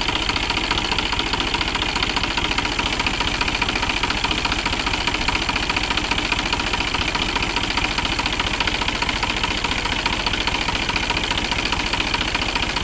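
New Holland 47 hp tractor's diesel engine running steadily near idle, with an even, rapid knock, while a carbon-cleaning additive is dripped slowly into its air intake.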